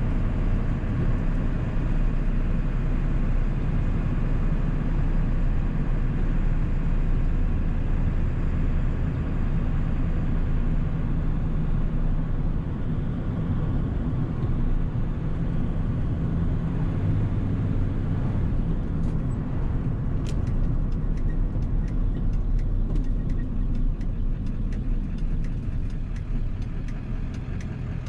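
1997 7.3 Powerstroke turbo-diesel V8 pulling the truck along, a steady low drone that eases off in the last third. A faint regular ticking, about two a second, comes in during the second half.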